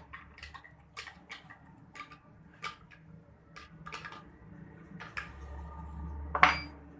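Irregular metallic clicks and taps of a spanner tightening the bolts that hold a wooden board to an electric motor's mount, about a dozen in all, with one sharp, louder knock near the end.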